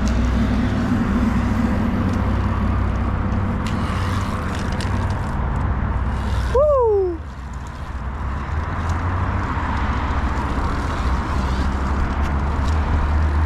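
Wind rushing over the microphone with road noise while riding an electric dirt bike. About six and a half seconds in there is a short pitched sound that falls in pitch.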